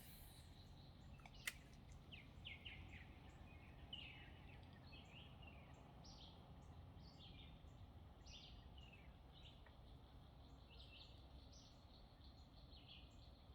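Faint outdoor ambience of birds chirping: many short chirps falling in pitch, repeated throughout, over a low steady rumble, with a single sharp click about a second and a half in.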